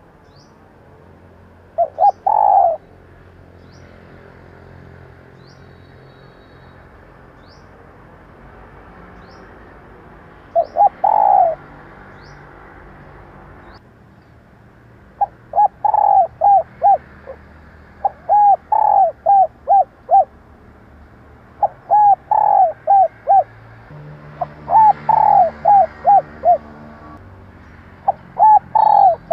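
Female spotted dove cooing: a short phrase of a few coos twice, then from about fifteen seconds in, a phrase of about five coos roughly every three seconds. Faint high chirps sound over the first half.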